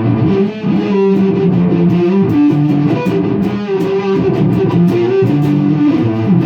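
Takamini GX-100 electric guitar played through a small tube amp: a run of quickly changing single notes, played as a lead line.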